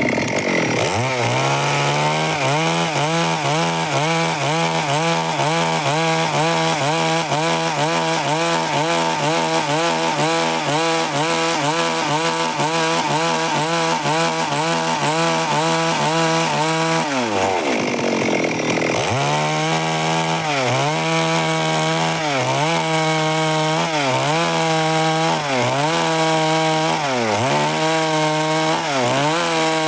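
Stihl MS 382 two-stroke chainsaw running at high revs and sawing through wood. The engine note wavers in a steady rhythm, drops briefly about seventeen seconds in, then climbs back and dips regularly about once a second as the chain loads in the cut.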